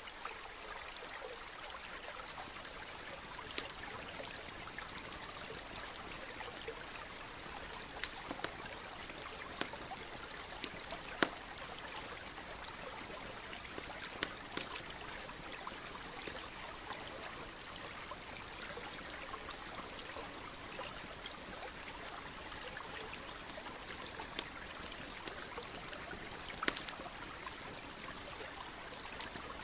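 A stream trickling steadily, with scattered sharp pops and crackles from a campfire, a few of them louder, notably around the middle and near the end.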